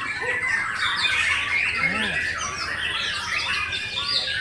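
Many songbirds calling at once: a dense, continuous mix of overlapping chirps, trills and harsh squawks, with one lower arching call about two seconds in.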